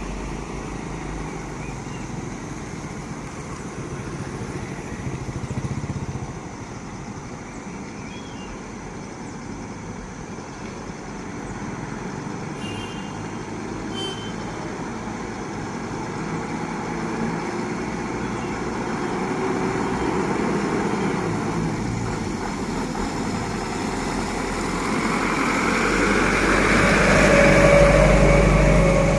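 Medium trucks driving past in a convoy, with a steady engine and tyre noise. It swells briefly about a fifth of the way in, then builds to its loudest near the end as a truck passes close.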